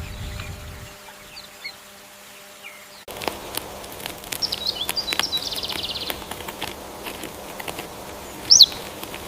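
Short, high chirps of small birds among scattered clicks, with a sudden change of background about three seconds in; the loudest chirp comes near the end.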